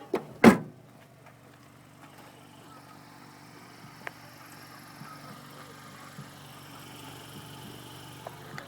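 A 2014 Honda Accord's trunk lid being shut: a light knock, then a heavy thud about half a second in. After it the car's V6 idles steadily underneath.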